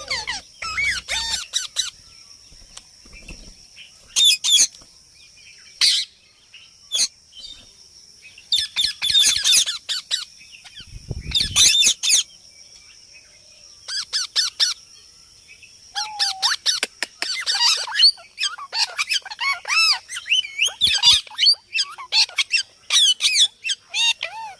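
A parrot calling in repeated bursts of squawks, chirps and wavering whistles, each burst about half a second to two seconds long with short pauses between, busiest in the second half.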